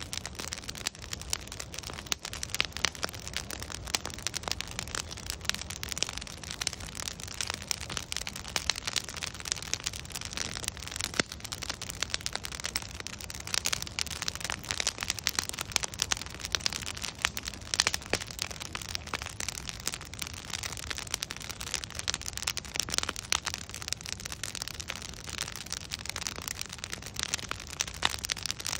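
Wood bonfire burning with dense, irregular crackling and popping of logs over a steady hiss.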